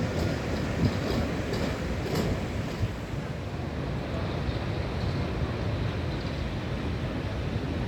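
Tram running along its track: a steady low rumble with a few sharp wheel clicks, the clearest about two seconds in.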